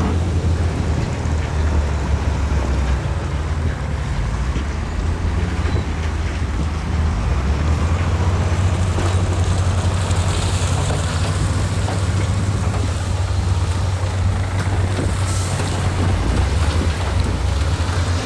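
Heavy diesel earthmoving machinery running steadily with a deep, even drone, with scattered knocks and clatter and two brief hisses a little past the middle.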